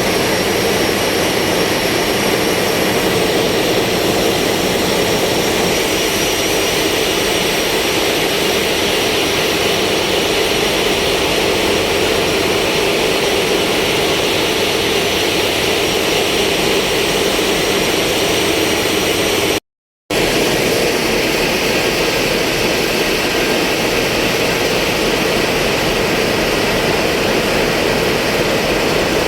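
Steady, loud roar of heavy ship engine machinery, cutting out completely for a moment about twenty seconds in.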